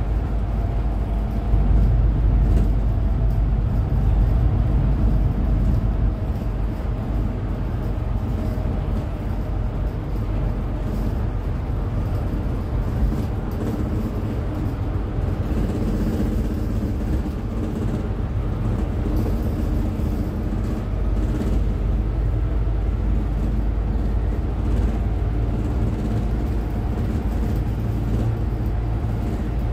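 Cummins ISF3.8 four-cylinder turbodiesel of a Daewoo Lestar minibus running steadily: a low rumble with faint engine tones that drift up and down a little.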